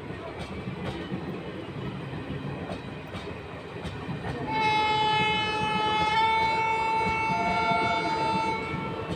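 Passenger train coaches rolling past close by, the wheels clicking over the rails. About halfway through, a train horn sounds as one steady blast lasting about four seconds.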